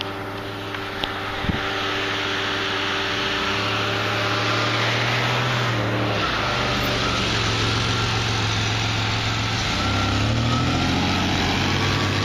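Motor vehicle engine running close by as a vehicle comes up and idles, its hum getting louder about a second and a half in and shifting in pitch a few times.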